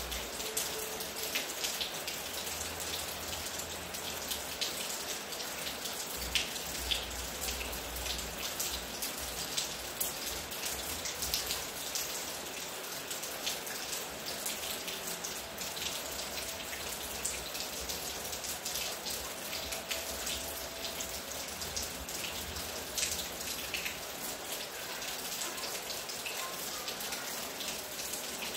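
Steady rain falling, with many separate sharp drop impacts ticking close by over the even hiss.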